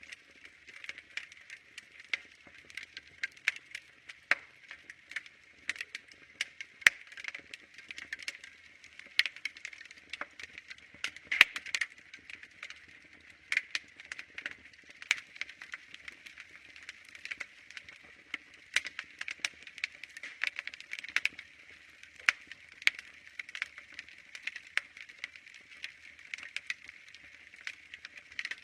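Wood fire crackling in a fireplace: irregular sharp pops and snaps, several a second and some much louder than others, over a soft steady hiss.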